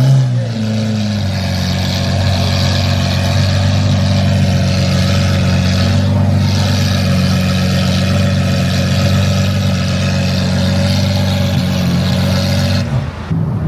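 Car engine running at a steady speed, its pitch settling slightly lower about a second in and holding there until it breaks off near the end.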